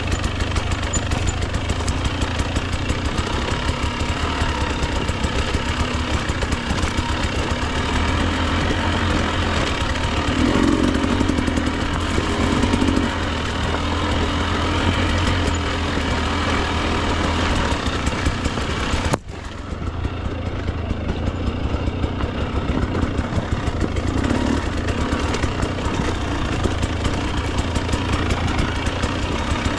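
Two-stroke dirt bike engine, a Husqvarna TE 300, running at low, fairly steady revs with a rapid firing beat. Its sound drops out suddenly and briefly about two-thirds of the way through, then comes back.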